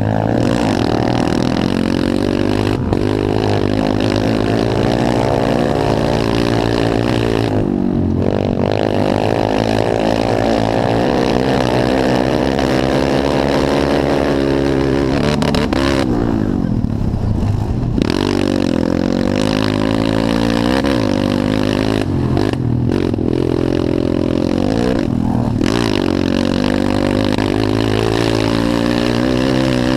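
Pit bike engines revving, their pitch rising and falling again and again as the throttle opens and closes and the bikes shift, with engine notes crossing one another at times.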